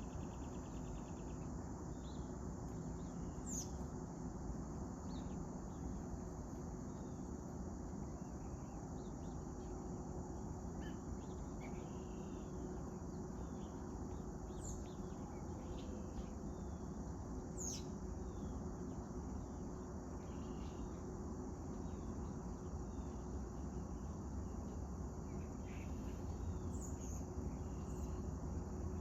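A steady insect chorus, like crickets, with a few short, high bird chirps scattered through it, over a constant low outdoor rumble.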